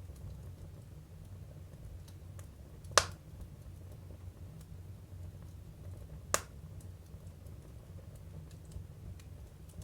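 Firewood burning in a Jøtul F305 wood stove: two sharp pops, about three and six seconds in, and faint small crackles over a steady low rumble of the fire.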